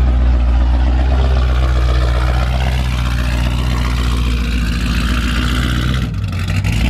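A loud car engine and exhaust running steadily, its pitch holding level, with a change in the sound about six seconds in.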